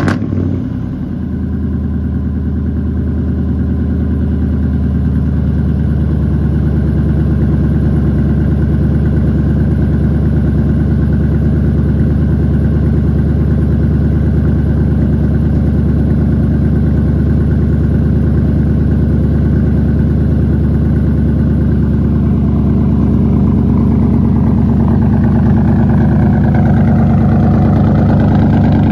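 Ford 5.4L Triton V8 in a 2001 F-150, just fired up, settling from the start-up flare into a steady, loud idle through its aftermarket exhaust.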